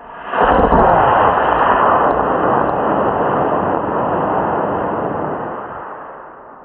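E26 model rocket motor firing: a sudden loud rushing hiss starts about half a second in. It holds steady for several seconds, then fades away as the rocket climbs.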